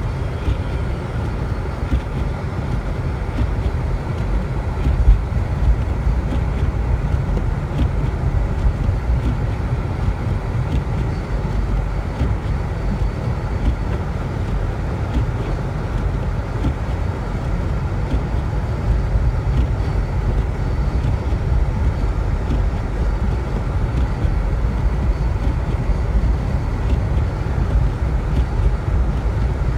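Honda Civic driving on a snowy road: a steady low rumble of engine and tyre noise, with a brief louder bump about five seconds in.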